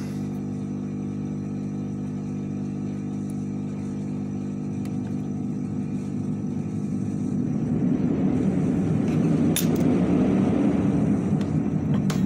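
A steady motor hum made of several even low tones. It grows louder and rougher from about eight seconds in.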